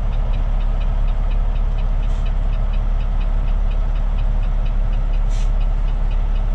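Heavy tow truck's diesel engine running steadily at low road speed, with the hazard flashers ticking about three times a second. Two short hisses come about two seconds in and near the end.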